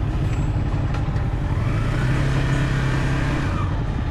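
Stock exhaust of a Yamaha XSR 155 and its single-cylinder engine running while the bike is ridden, a steady engine hum under wind and road noise.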